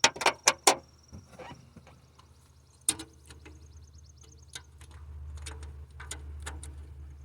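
Sharp clicks and knocks of hands and tools working in an engine bay: four in quick succession at the start, a loud one about three seconds in, then lighter scattered ones, with a low rumble in the last couple of seconds. A faint, steady, high chirping runs behind it.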